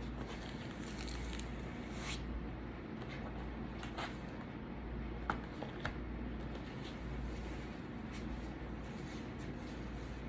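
Someone eating chicken: soft chewing and tearing, with a few light clicks, over a steady low hum.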